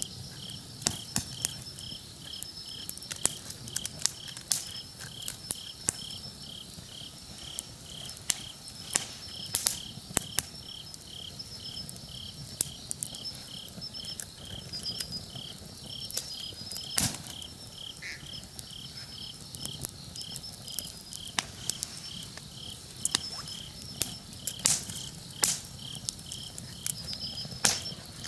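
Wood campfire crackling with irregular sharp pops, one louder pop about 17 seconds in. Insects chirp behind it, one with an even pulse about twice a second and a higher, fainter one coming and going.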